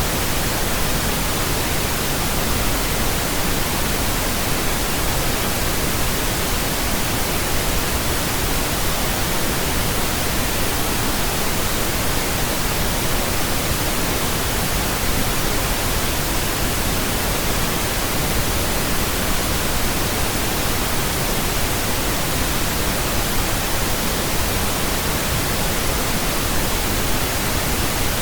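Pink noise: a steady, unchanging hiss spread evenly across the whole range, with no events or changes.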